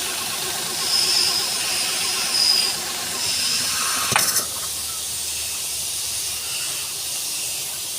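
Car engine running with a steady hiss. A sharp click comes just after four seconds in, after which the low engine sound drops away and the hiss carries on.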